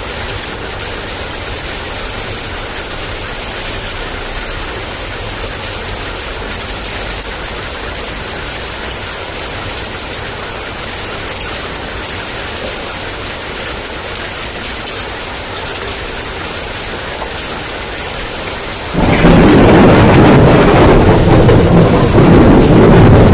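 Heavy rain falling steadily, with a low rumble underneath. Near the end a loud peal of thunder breaks in suddenly and keeps rumbling.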